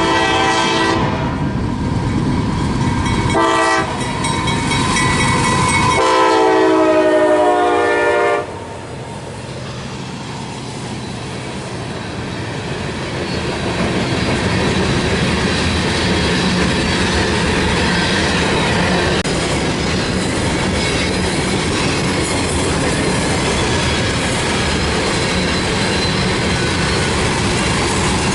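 Locomotive air horn sounding a chord: a long blast that ends about a second in, a short blast, then a long blast that stops about eight seconds in. After the horn, the train keeps rolling past with steady rumbling and wheels clicking over the rails.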